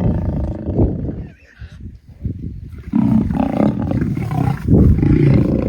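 Lions roaring during a fight: loud, rough calls in the first second or so, a brief lull, then loud again from about three seconds in.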